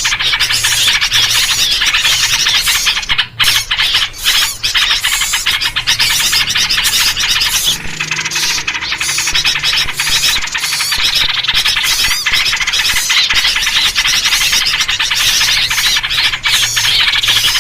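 Dense, continuous chorus of agitated small-bird calls and chirps led by trucuk (yellow-vented bulbul) calls: a 'noisy birds' lure recording played to draw small birds in.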